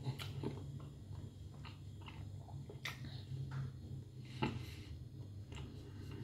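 A person chewing and eating food: faint, irregular small clicks and smacks, one every half second or so, over a steady low hum.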